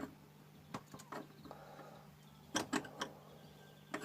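Scattered light clicks and taps of metal parts and tools being handled while a Stihl chainsaw's chain tensioner screw is turned to tighten the chain. A low, steady hum runs underneath.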